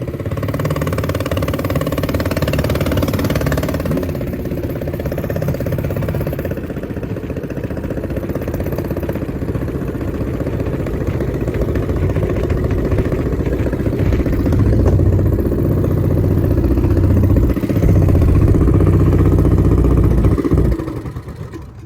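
Car engine running, with a steady low drone that grows louder for several seconds late on, then drops away sharply just before the end.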